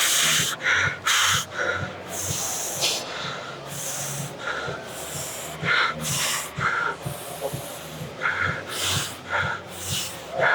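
A man breathing hard during a workout: quick, noisy breaths in and out that come irregularly, about one a second, with short gaps between them.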